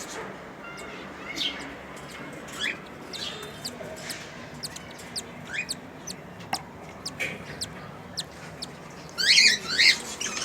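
Aviary birds chirping: short rising chirps and clicks about once a second, then a louder burst of calls about nine seconds in.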